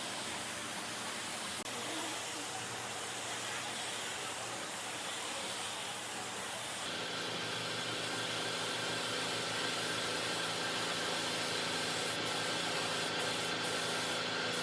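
Steady hissing workshop machine noise. About halfway through, a machine's steady hum joins in.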